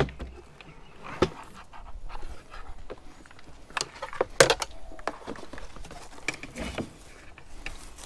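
Scattered knocks and clinks of scrap junk being moved by hand, with a person's breathing close by; the sharpest knocks come about a second in and around the middle.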